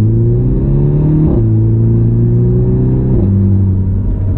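MINI Cooper S F56's 2.0-litre turbocharged four-cylinder running through an NM Eng downpipe-back aftermarket exhaust, heard from inside the cabin under acceleration: a deep engine note rising in pitch, stepping down sharply twice, about a second in and again about three seconds in, as the car shifts up.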